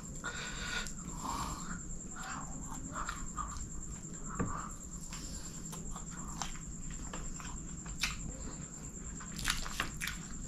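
Close-miked chewing of chicken kottu roti eaten by hand, with wet mouth smacks and sticky finger clicks, sharpest a little over four seconds in and again near the end. A steady high-pitched tone runs underneath.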